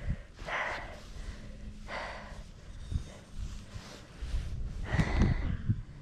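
A person breathing hard in short, loud huffs, about four breaths in all, two of them close together near the end, over a low rumble.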